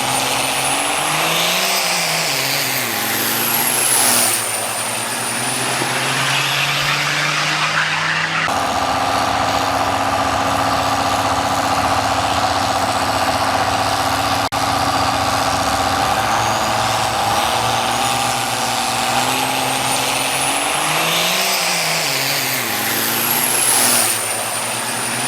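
Diesel drag-racing truck engines running and revving, with a very high whistle that rises and falls twice. About eight seconds in there is an abrupt switch to a steadier, even engine note.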